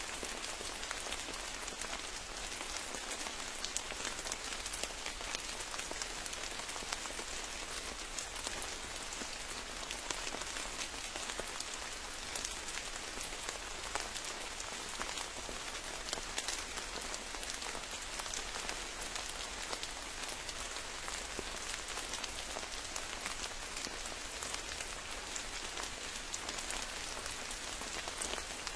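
Steady rain falling on a surface, an even hiss full of the small ticks of individual drops.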